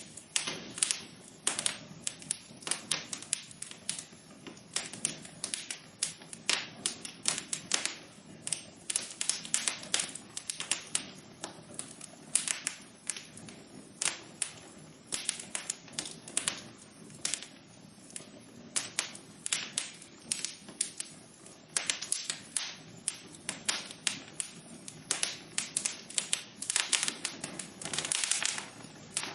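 Wood fire crackling, with frequent irregular sharp pops and snaps over a soft steady hiss of the flames.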